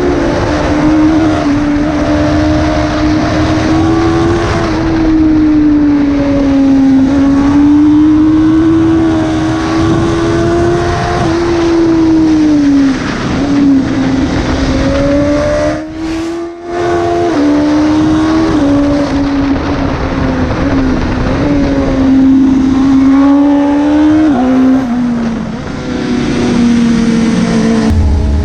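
Sportbike engine revving hard, its note climbing and dropping with throttle and gear changes and cutting out briefly about halfway through.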